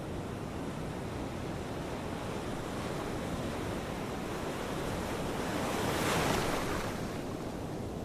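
Ocean waves washing on the shore, a steady rush of surf with one wave breaking louder about six seconds in.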